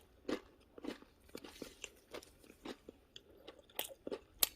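Someone chewing and crunching bread with a crisp biscuit crust, in irregular crunches; the loudest comes near the end.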